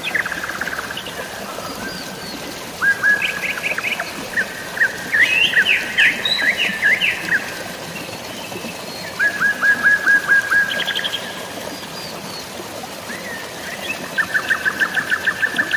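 Birds chirping in several fast runs of short repeated notes, over a steady hiss of falling water.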